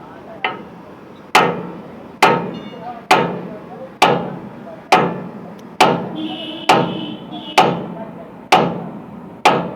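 Heavy hammer blows on a truck wheel stud, about ten strikes at a steady pace of roughly one a second, each ringing briefly, knocking out a stud said to be broken.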